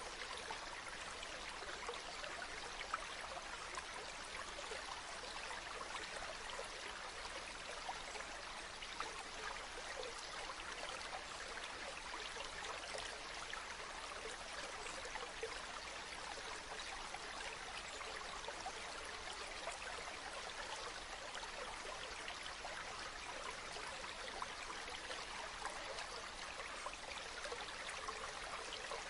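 Running water flowing steadily: a constant rushing hiss of a stream or falls with small splashes in it.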